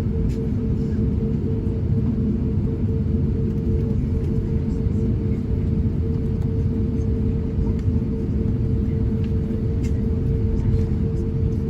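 Steady low cabin rumble of an Airbus A350-1000 taxiing after landing, its engines at idle, with a constant hum and a few faint clicks.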